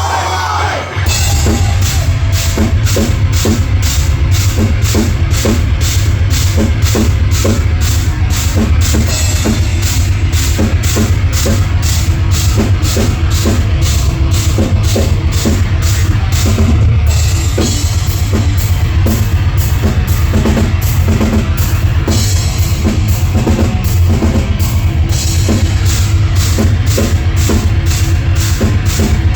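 Live heavy metal band playing an instrumental passage: the full band comes in about a second in, with a steady, driving drum-kit beat under the guitars and bass.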